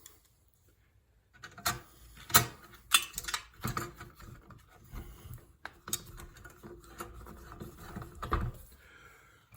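Small screws and the chrome headlight trim ring being handled and fitted to the headlight assembly: a run of sharp clicks, loudest a little after the start, then steady light scraping and ticking of metal and plastic parts.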